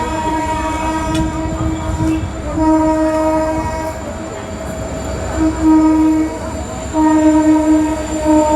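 Train horn sounding in about four blasts of one steady pitch, the first and last the longest, over the low rumble of the moving electric local train.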